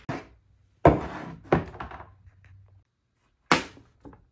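Wooden marble-run course pieces being handled and set down: four sharp wooden knocks spread over about three and a half seconds, with a faint tap or two after the last.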